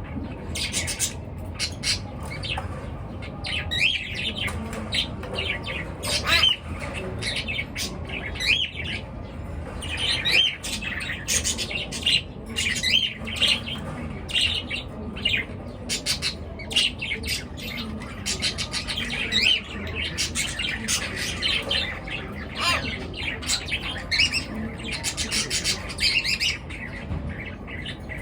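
Many pet birds chirping and squawking at once, a continuous stream of short overlapping calls.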